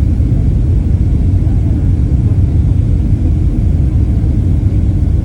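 Steady low cabin rumble of a Boeing 767-300 airliner in flight, the noise of its twin turbofan engines and airflow heard from inside the cabin, even and unchanging.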